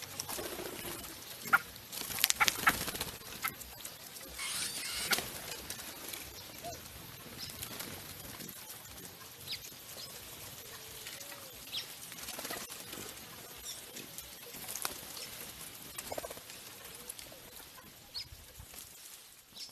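Birds moving about, with wing flapping, short arching calls and scattered sharp clicks and knocks.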